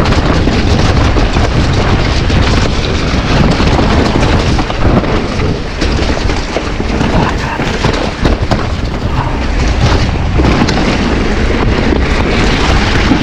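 Loud, steady wind rumble buffeting an action camera's microphone during a mountain bike ride, mixed with the noise of the bike's tyres rolling over a wet, rough trail.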